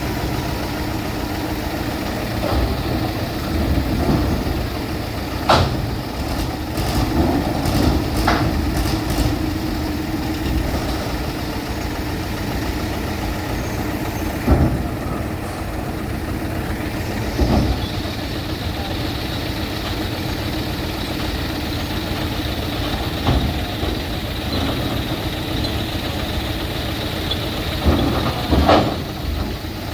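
A heavy vehicle's diesel engine idling steadily, with a few sharp knocks and clanks.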